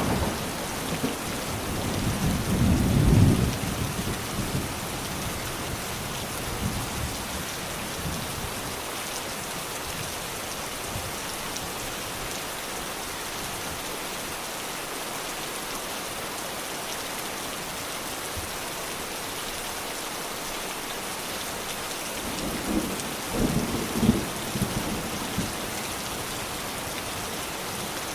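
Steady heavy rain hissing, with thunder rumbling low twice: once in the first few seconds and again near the end.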